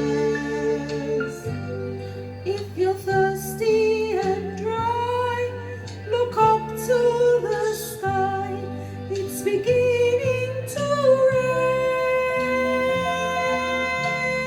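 Music: a woman singing long, sliding held notes over instrumental accompaniment, with a bass line that moves in steps.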